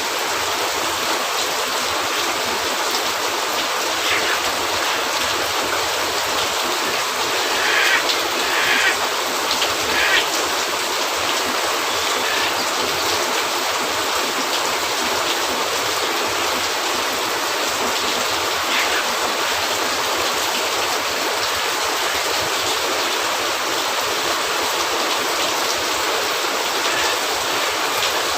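Steady rain falling on a cabin roof, a dense even hiss, with a few brief crackles and pops from a wood fire, clustered about eight to ten seconds in.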